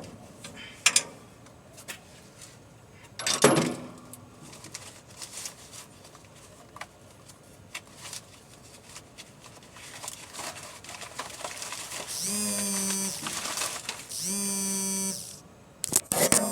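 Clicks and two sharp knocks, then an electric buzz sounding twice, each time for a bit under a second.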